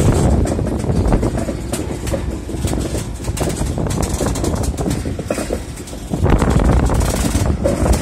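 Loaded JNA box wagons of a freight train rolling past on the rails, with a steady low rumble and many short clanks and clicks from the wheels and couplings. The sound grows louder about six seconds in.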